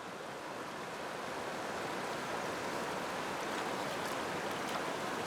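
Steady rush of flowing stream water, growing slightly louder over the first couple of seconds.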